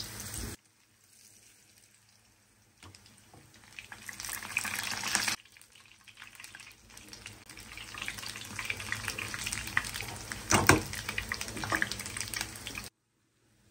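Onion pakoras sizzling and crackling in hot oil in a pan as they are turned with a spatula. The sizzling comes in stretches with near-silent gaps, and one sharp knock stands out about three-quarters of the way through.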